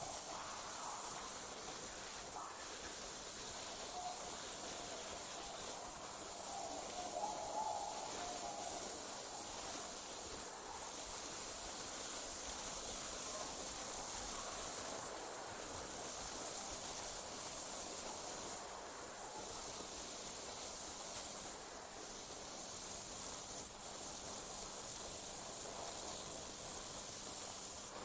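Night insects trilling: one continuous, very high-pitched trill that breaks off for a moment every few seconds, over a faint background of night air.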